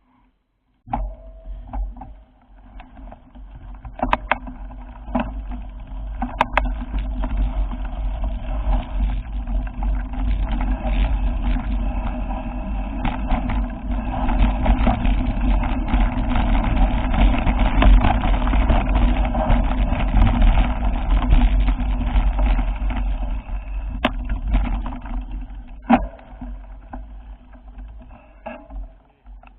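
A motor vehicle running, with a low rumble that builds to its loudest around the middle and fades away near the end, and a few sharp clicks on top.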